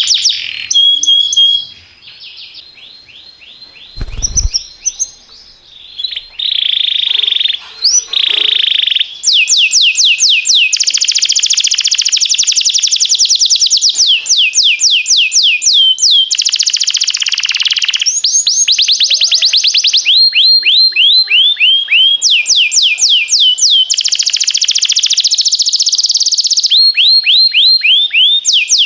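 Domestic canary singing in rapid trills, fast runs of repeated falling notes that change every second or two. The song is softer for a few seconds near the start, with a brief low thump about four seconds in.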